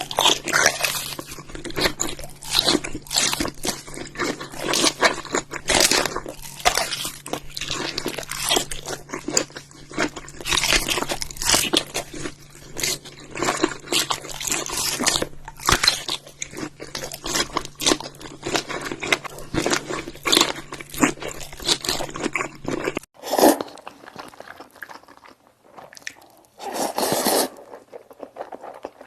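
Crunchy food being bitten and chewed close to the microphone: rapid, dense crunching over a faint steady hum. About 23 seconds in, the crunching and hum stop together, leaving only a few short, separate chewing sounds.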